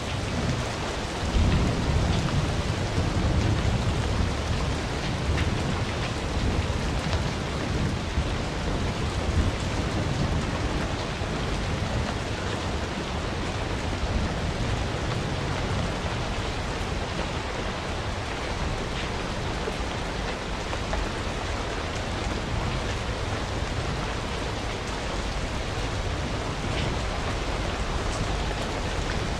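Bonfire burning: a steady, dense crackle over a low rumble of flame.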